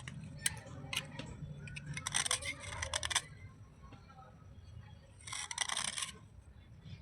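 Crunching of wet slate pieces being bitten and chewed: a few sharp cracks in the first second, then two dense bursts of crackling crunch, one about two seconds in and one about five seconds in.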